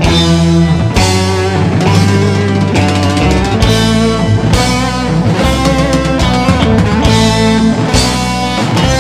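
Live band music with no singing: bass and melody instruments over a steady beat that strikes about once a second.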